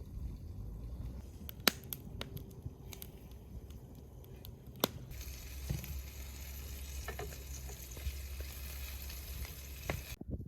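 Fish sizzling as it fries in a pan, with a few sharp clicks; the frying hiss grows louder about halfway through.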